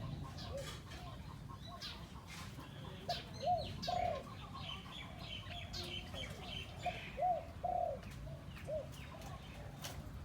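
A year-old decoy dove cooing: short arched coos repeated in phrases, with small birds chirping faintly higher up.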